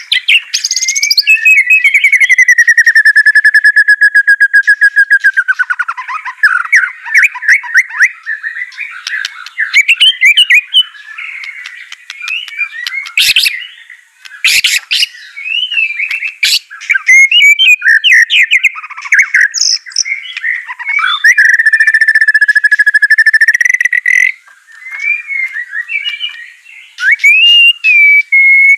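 White-rumped shama singing loudly: varied whistled and chattering phrases, with two long rapid trills held at one pitch, one near the start and one past the middle, and a few sharp clicks in between.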